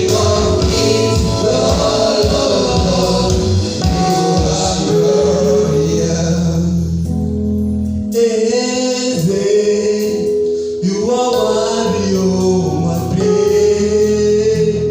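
Gospel worship song with a choir singing over a band. About eight seconds in the low accompaniment drops away, leaving mostly the voices singing in harmony.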